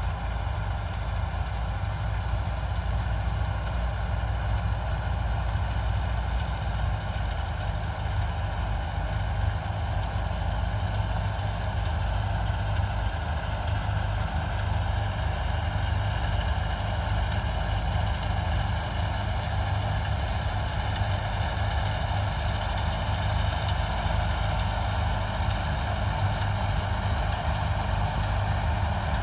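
Heavy diesel harvest machinery running steadily at constant speed: a deep engine rumble with several steady whining tones held above it.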